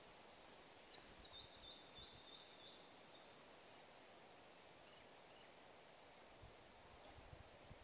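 Near silence with a small bird calling faintly: a run of about six quick, high, repeated notes about a second in, then a few scattered fainter chirps. A few faint low thuds come near the end.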